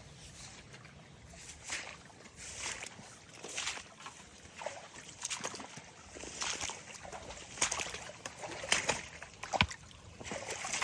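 Gumboots wading through creek water, sloshing with each step at about one step a second, with a sharp knock near the end.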